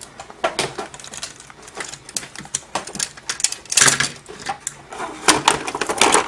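Irregular clicking and clattering of plastic toy parts being handled, with a denser burst of clatter about two-thirds of the way through.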